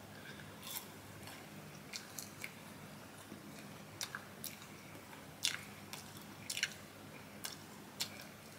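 A person chewing and biting on Burger King Chicken Fries close to the microphone: wet mouth sounds with about a dozen short sharp clicks and smacks scattered through, the loudest a little past the middle.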